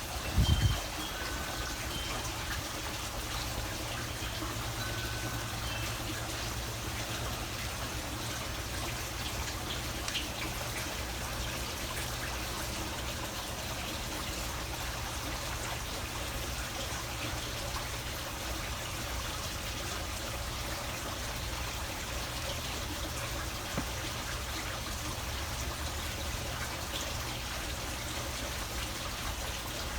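Steady trickle of running water, with a low thump just under a second in.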